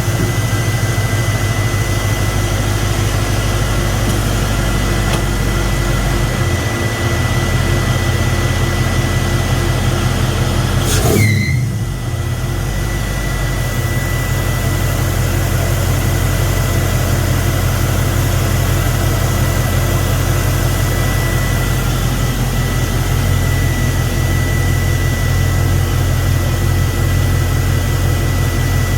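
A 5.3-litre LS V8 running steadily at idle with a thin steady whine above it, and one brief louder sweep about eleven seconds in. The owner is chasing a slight misfire that he suspects is a lack of fuel.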